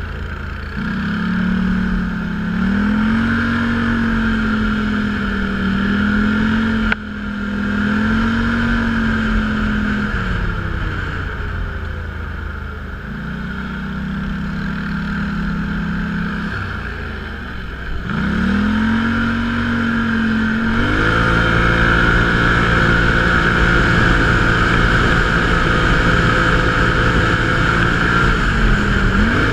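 Off-road vehicle engine running under changing throttle, its pitch rising and falling again and again, with a brief sharp click about seven seconds in. Later it holds a steadier, higher and louder note.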